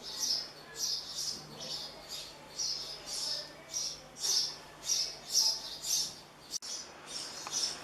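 House sparrow nestlings chirping in the nest box: a quick, regular series of high chirps, about two or three a second, over a faint steady hum.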